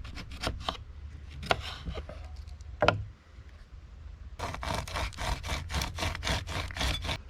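Lemon being cut and squeezed by hand for pancake batter: scraping, rubbing strokes, a few irregular ones with a sharp click about three seconds in, then a quick steady run of about four strokes a second near the end.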